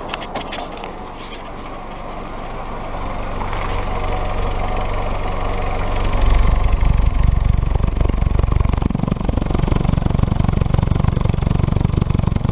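Willys L134 Go Devil flathead four-cylinder engine running, heard at the tailpipe, its exhaust getting louder about six seconds in. The exhaust is carrying moisture, which the owner wonders comes from a leaking head gasket.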